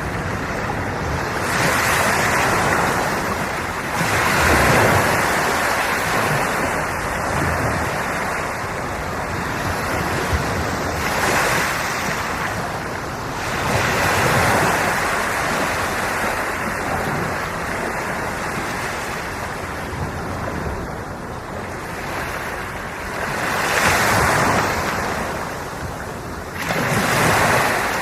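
Sea waves breaking and washing up on the shore, each surge swelling and fading every few seconds.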